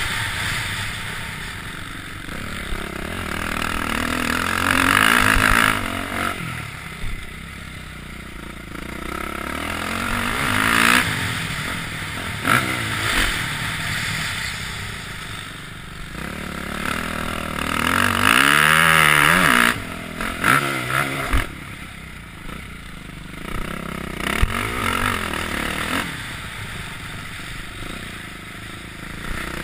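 Motocross bike engine heard on board, revving up hard and easing off again and again as it rides the track, loudest in a long rising-and-falling rev a little over halfway through.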